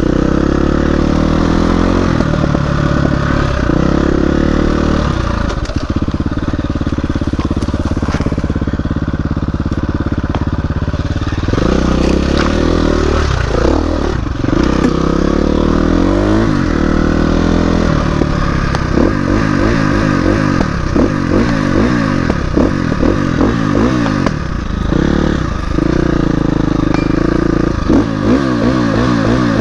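Dirt bike engine running hard on a trail, its revs rising and falling with throttle and gear changes, the pitch wavering rapidly in the second half.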